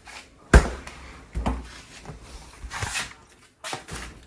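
Refrigerator door being handled and shut: a sharp knock about half a second in, then a dull low thump, with lighter knocks and rattles after.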